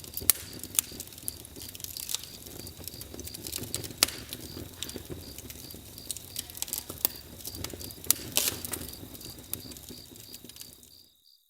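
Campfire crackling and popping, with irregular sharp snaps over a low rumble of burning. A high chirping repeats a few times a second behind it, like crickets. The sound fades out near the end.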